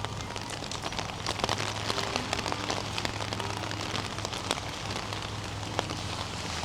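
Rain falling, with many sharp, irregular drops and drips landing close by. A steady low hum runs underneath.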